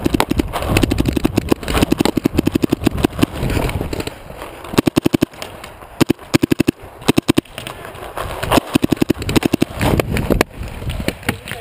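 Paintball markers firing in repeated rapid bursts of many shots a second.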